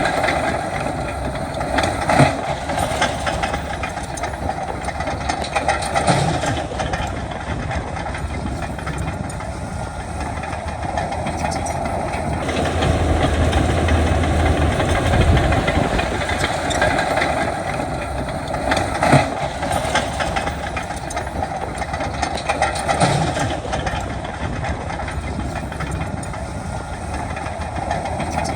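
Heavy diesel earthmoving machinery running under load, a steady engine noise with a few sharp clanks of metal and stone now and then.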